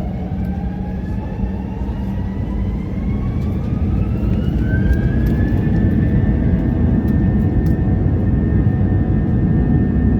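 Airbus A321 jet engines spooling up to takeoff thrust, heard inside the cabin: a rising whine that levels off about five seconds in, over a heavy steady rumble.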